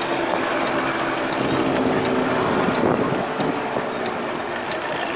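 Small engine of an open GoCar three-wheeler running steadily as it drives, with road noise and wind rushing over the open car.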